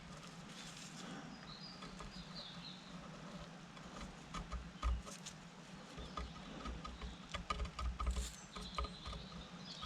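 Faint, scattered clicks and light taps of a small metal hydraulic-pump part being moved about against a measuring gauge, with a few soft thumps. Faint bird chirps can be heard near the start and near the end.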